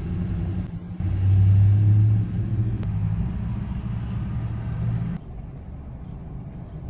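Diesel pickup truck driving: a steady low engine and road rumble, a little louder for about a second near the start, then turning quieter and duller about five seconds in.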